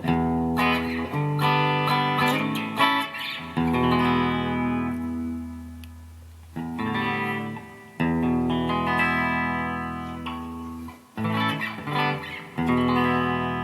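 Yamaha Pacifica PAC012 electric guitar on its bridge humbucker, played through a Vox amp into a 12-inch speaker cab with the gain halfway and a little reverb. Chords are picked and left to ring out, one after another.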